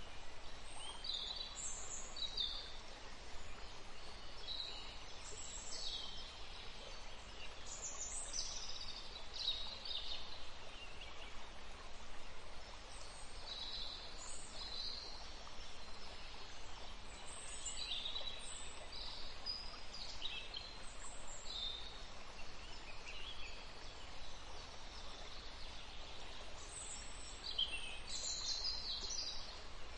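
Small birds chirping here and there in short, high calls over a steady background hiss.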